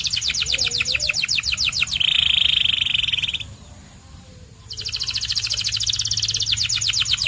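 Domestic canary singing: a fast trill of rapidly repeated high notes, about ten a second, then a steady buzzy roll about two seconds in. After a pause of about a second the fast trill resumes.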